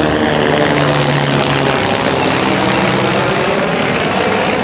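Aircraft engine drone with a wide rushing noise, as a plane flies overhead; the steady engine note fades about two seconds in while the rush goes on.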